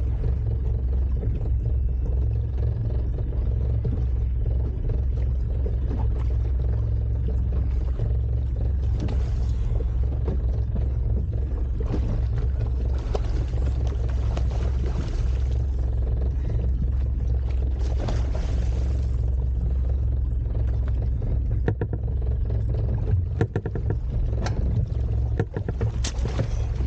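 Boat engine running with a steady low rumble, with a few passing rushes of hiss and several sharp knocks near the end.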